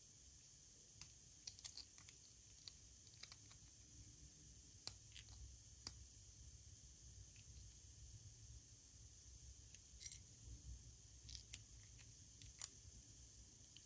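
Faint scattered clicks and light ticks of small objects being handled, irregular and sparse, with a few sharper clicks about five, ten and twelve seconds in, over a quiet background hiss.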